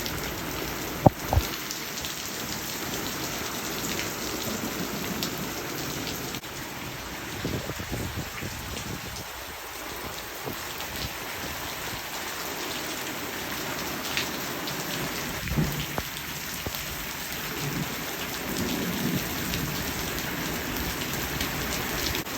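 Heavy thunderstorm rain falling steadily, with a sharp crack about a second in and low thunder rumbles later on.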